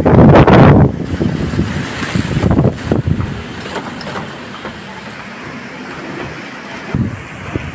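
Storm wind gusting hard against the microphone, with heavy rumbling buffets in the first second and again near the end, over a steady rush of noise that eases in the middle.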